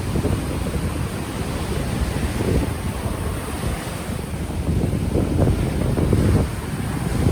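Ocean waves washing ashore, with wind buffeting an unshielded microphone as low rumbling gusts. The gusts swell from about five seconds in and drop back a little before the end.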